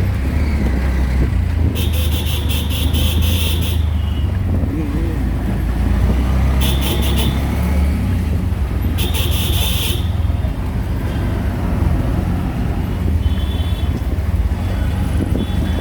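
Auto-rickshaw engine running steadily in street traffic, with three short, rattling high-pitched bursts: a long one about two seconds in, then two shorter ones a few seconds apart.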